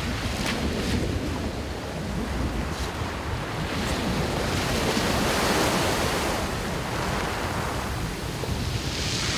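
Sea waves breaking and washing up a shingle beach, with wind buffeting the microphone as a low rumble. One wave breaks louder about halfway through, and another builds near the end.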